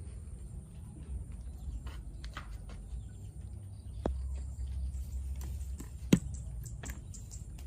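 Scattered light clicks and taps over a low steady rumble, with one sharp knock about six seconds in.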